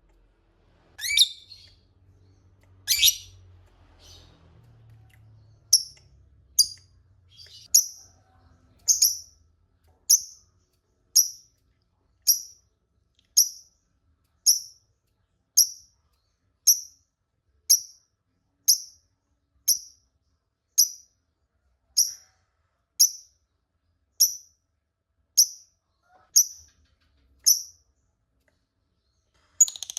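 Lovebird calling: two longer high calls, then a long, even series of short, sharp, high chirps about once a second.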